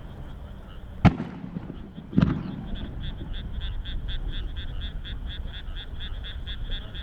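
Two aerial firework shells bursting about a second apart, the second followed by a rumbling echo. Behind them a chorus of frogs croaks steadily at about four calls a second.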